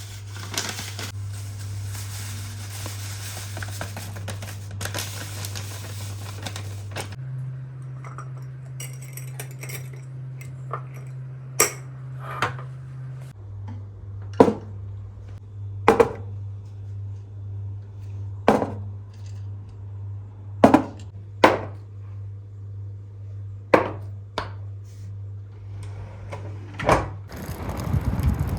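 Kitchen containers and jars being handled and set down, giving about a dozen separate sharp clinks and knocks, mostly in the second half. A steady low hum runs underneath and steps up in pitch for several seconds in the middle.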